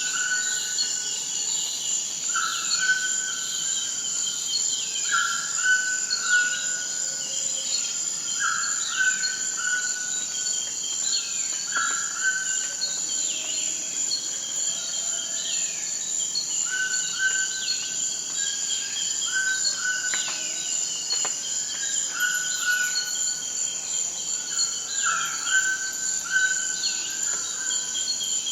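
Forest ambience: a steady high drone of insects such as crickets, with a bird call repeating every two to three seconds and many quick, high falling chirps over it.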